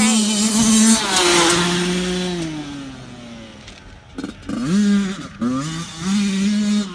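Dirt bike engine revving hard, its pitch sliding down and fading in the middle, then a series of short rising throttle bursts near the end.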